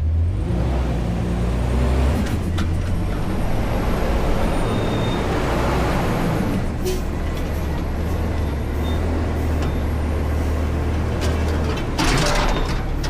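Diesel engine of a front-load garbage truck running steadily, with a few light clicks and a short hiss near the end.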